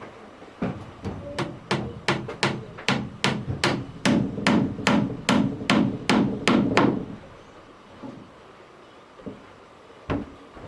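Hammer blows struck in a quick, even run of about three a second, some twenty strikes, stopping about seven seconds in; a single knock follows near the end.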